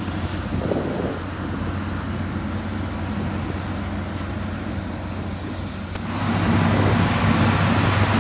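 Heavy diesel construction machine engine running steadily with a low hum, growing louder and rougher about six seconds in as it works harder or comes closer.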